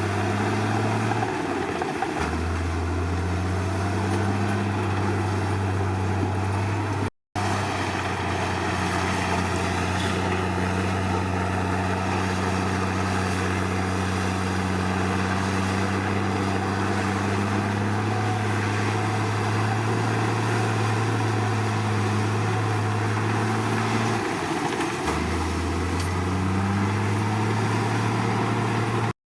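Komatsu D53 bulldozer's diesel engine running steadily under work, with clattering noise above it. The engine note drops in pitch briefly about two seconds in and again near the end. The sound cuts out for an instant about seven seconds in.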